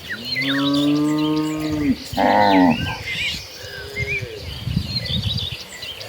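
Cattle mooing: one long, low moo of about two seconds, then a shorter, higher moo, and a fainter moo about four seconds in. Small birds chirp throughout.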